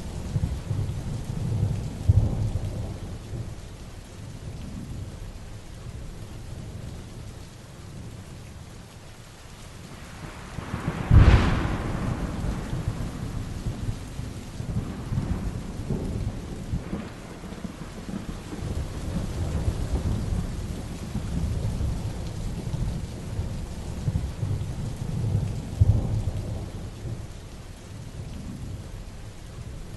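Heavy rain falling steadily with thunder rumbling low. About a third of the way through comes a sharp, loud thunderclap, followed by rolling rumbles.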